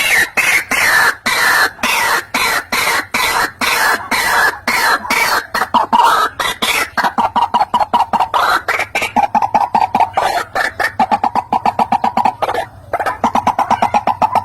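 White-breasted waterhen calling: a loud, rapid string of short repeated croaking notes, several a second, with a brief break near the end. The notes sit higher at first and settle lower and faster in the second half.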